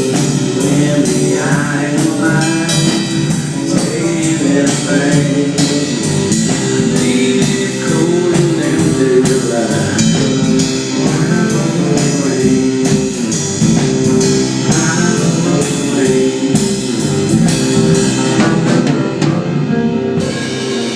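Live band music with drums and guitar, played loud, with regular drum strikes; the cymbals fall away near the end as the song winds down.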